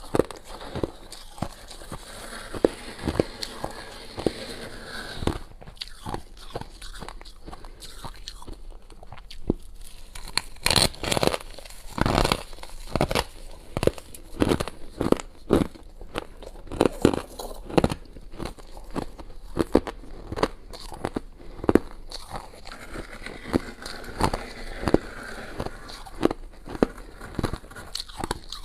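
Thin, crunchy freezer frost being bitten and chewed close up: many sharp, irregular crunches, thickest in the middle stretch.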